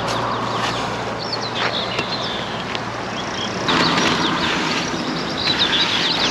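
Small birds chirping repeatedly over a steady rushing hiss, with a low steady hum under the first half; the background changes abruptly about four seconds in.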